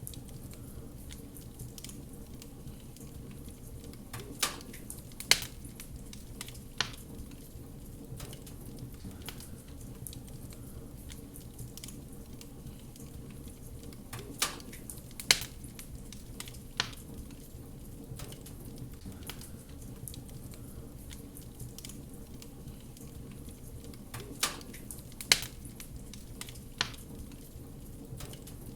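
Wood fire burning with a steady low rumble and soft crackle, broken by sharp pops that come in groups of three, the same group returning about every ten seconds.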